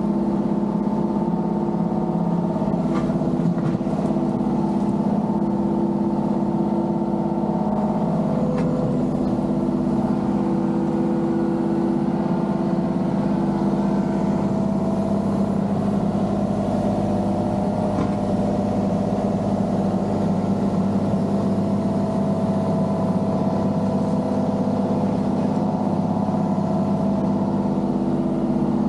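Diesel engine of a compact construction machine running steadily at high revs, with a few faint knocks now and then.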